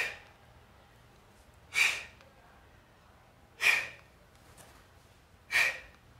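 Sharp, forceful exhalations through the mouth, one on each side plank crunch rep: four short breaths spaced about two seconds apart.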